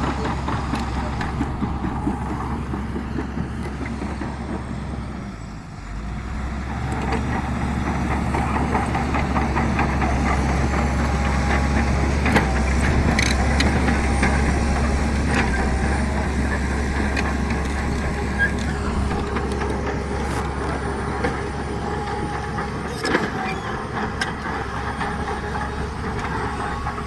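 Heavy diesel earthmoving machinery running steadily, with a few sharp knocks. The engine drone dips briefly about five seconds in.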